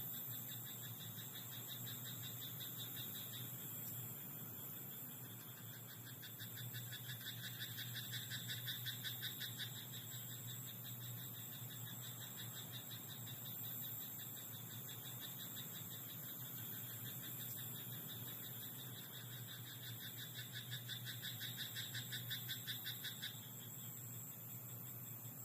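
Frogs calling in a rice paddy, a chorus of rapid pulsed croaking trills that swells twice, about six seconds in and again near the end, over a steady high-pitched trill.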